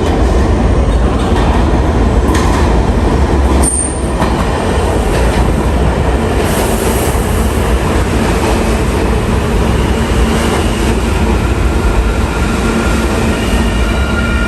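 New York City subway train running through the station with a loud, steady rumble of wheels on rail. Thin high wheel squeal sets in near the end.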